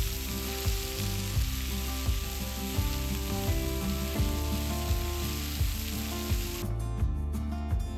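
Food sizzling in a hot frying pan, an even hiss that cuts off suddenly near the end, over background music with a steady beat.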